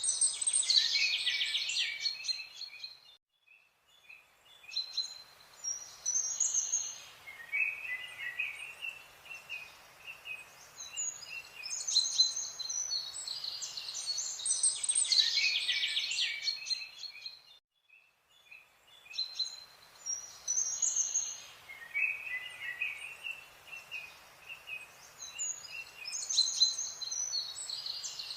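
Birdsong: several birds chirping and trilling in quick clusters. The same stretch of song repeats about every fourteen seconds, with a brief drop-out each time, like a looped background track.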